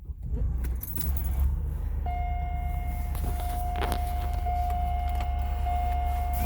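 Car engine starting and then running with a steady low rumble. About two seconds in, a steady high tone comes on and holds alongside it, with keys jangling.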